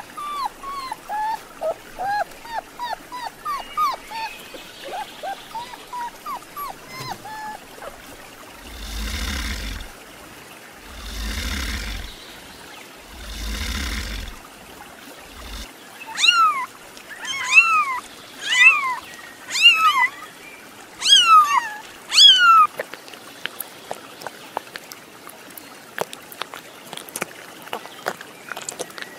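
Newborn puppies whimpering in short, falling squeaks; then three long, rasping hisses over a deep rumble from a crocodile; then a run of about eight loud chirps that slide downward in pitch, the loudest sounds here.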